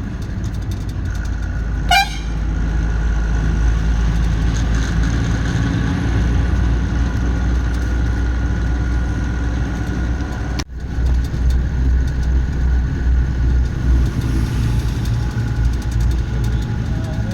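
Truck engine running steadily as the lorry drives, with a short horn toot about two seconds in.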